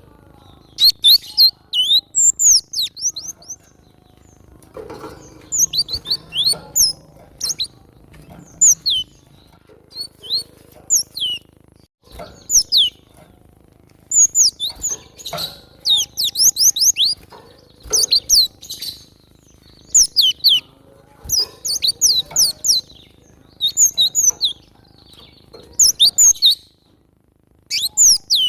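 Cinereous tit (glatik batu) calling persistently: quick bursts of sharp, high, falling notes, repeated every second or two with short gaps between them.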